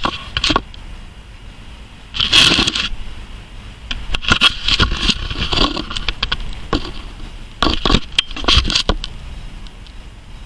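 Close handling noise: irregular bursts of scraping and rustling, with scattered clicks between them.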